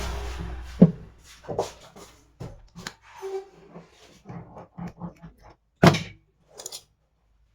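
A steady engine hum dies away in the first second. Irregular knocks and clicks follow, sharpest about a second in and again near six seconds, like tools and metal parts being handled in a repair shop.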